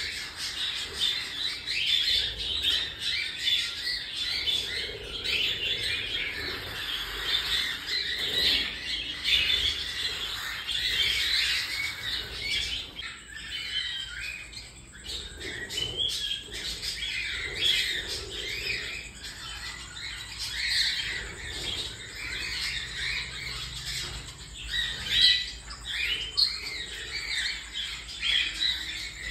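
Baby cockatiels squawking and chirping, many short raspy calls overlapping without a break.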